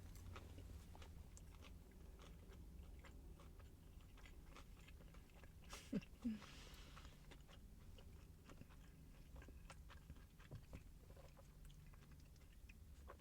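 Quiet chewing of a fried chicken sandwich with crispy bacon: soft wet mouth clicks and faint crunches, with a short hum about six seconds in.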